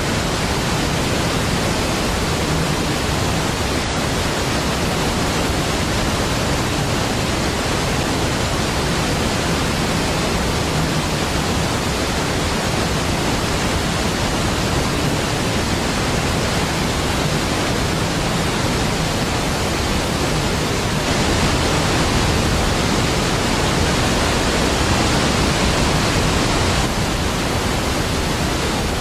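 Niagara Falls: a large waterfall's falling water makes a steady, deep, even rush of noise with no breaks, swelling slightly a little past two-thirds of the way through.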